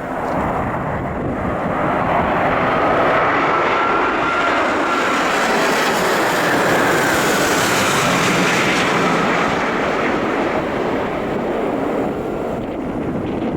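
Jet airliner passing close by: the engine roar, with a high whine on top, swells to a peak about halfway through and then eases off.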